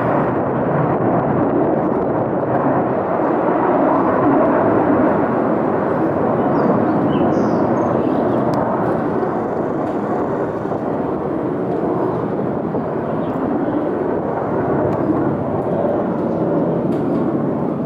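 US military fighter jets taking off: a loud, continuous jet-engine roar that builds slightly over the first few seconds and then slowly eases off.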